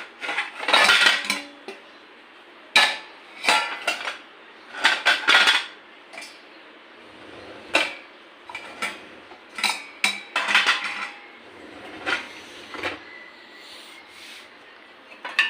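Dishes, pots and cutlery clattering and clinking as they are handled and taken out of a dishwasher rack. The knocks come in irregular bunches, loudest in the first half.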